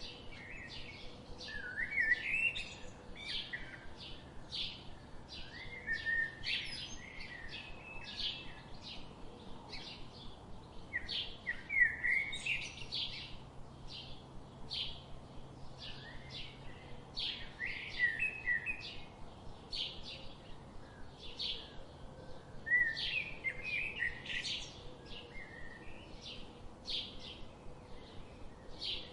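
Birds chirping and singing: a steady run of short, high chirps about two a second, with a louder warbling phrase every five or six seconds.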